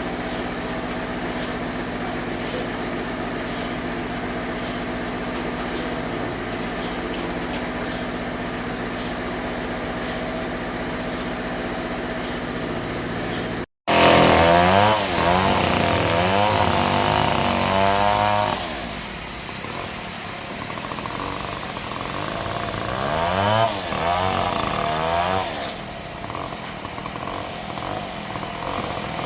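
Bandsaw sawmill running with a steady hum and a light tick about once a second. After an abrupt cut in the sound, it runs louder, sawing wood with a whine that wavers up and down, in two spells.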